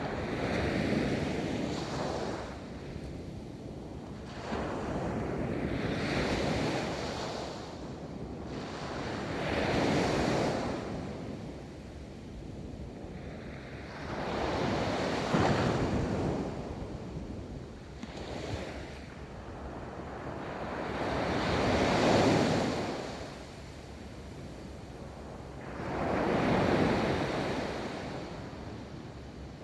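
Ocean waves breaking and washing up a beach, in slow surges about every four to five seconds, with a steady rush of surf between them and some wind on the microphone.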